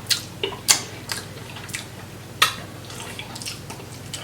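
Close-up eating of seafood boil: a scattered run of sharp wet clicks and smacks, about eight in all, from mouth and sauce-covered seafood.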